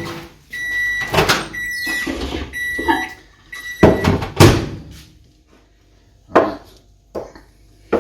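Microwave oven stops running and gives four long, even-pitched beeps, the signal that its timer has finished. Loud knocks and clunks overlap the beeps, the loudest about four seconds in, followed by a few lighter clicks.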